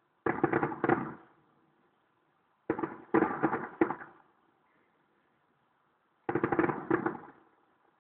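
Distant fireworks going off in three quick volleys of bangs and cracks, each lasting about a second, roughly three seconds apart.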